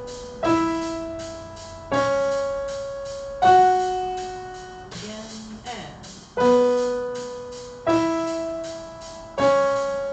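Piano playing a slow three-note pattern twice, each note struck in octaves and left to ring and fade, about one note every second and a half: an ear-training pattern played for string students to echo by ear.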